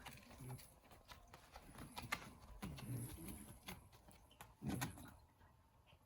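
Shiba Inu reverse sneezing in short bouts: about half a second in, around three seconds, and loudest near five seconds. A symptom of the dog's pollen allergy (hay fever).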